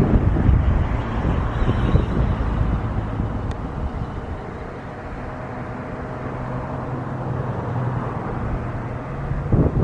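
Wind buffeting the microphone, easing after about three seconds to let a steady low engine hum through, then gusting again near the end.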